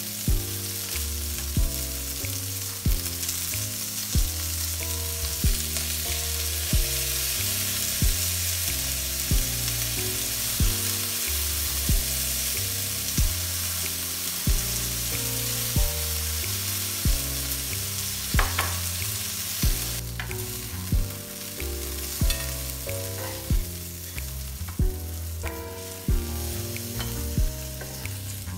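Chicken and spring-onion skewers sizzling steadily in a hot frying pan as teriyaki sauce is brushed over them. Soft background music with a regular beat plays underneath.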